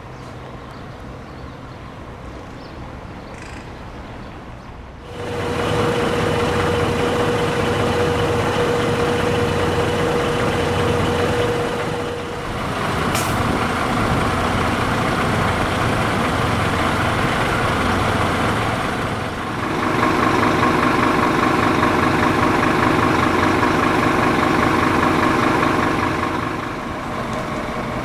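Fire engine's diesel engine running close by. It becomes loud about five seconds in, with a steady whine through the middle and a sharp click about thirteen seconds in.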